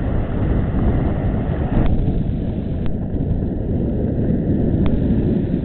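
Sea waves making a steady, low rumbling roar, with a few faint clicks about two, three and five seconds in.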